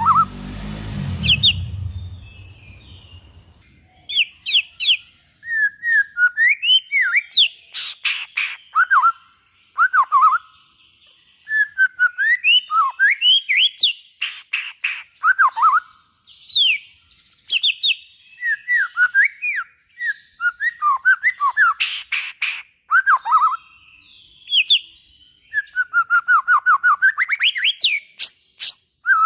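White-rumped shama singing a long, varied song: clear whistled notes that swoop up and down, mixed with fast runs of dry ticking and chattering notes. A low rumbling noise is heard for the first two seconds.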